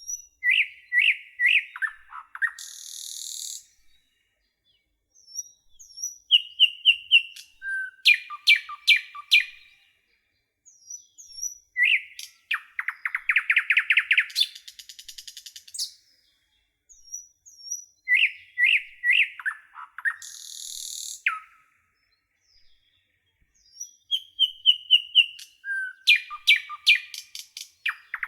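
A songbird singing in phrases of chirps, falling notes and rapid trills, each phrase about four seconds long, with pauses of a second or two of silence between them.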